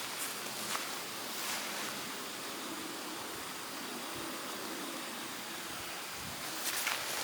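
A steady rushing outdoor noise, with a few short crackles near the start and again near the end.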